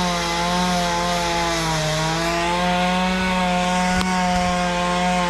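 Two-stroke chainsaw running near full throttle, its pitch sagging slightly for a moment about two seconds in and recovering, as when the chain is cutting into wood.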